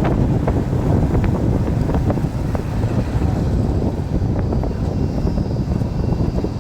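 Steady low rumble of a vehicle running, with wind buffeting the microphone and a few faint clicks.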